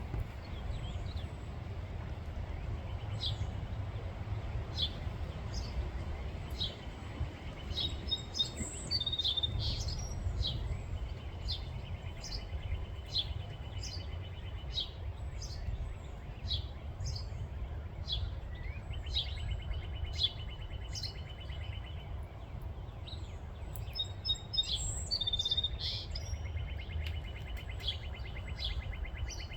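Small birds chirping repeatedly, with several buzzy trills of a few seconds each, over a steady low rumble.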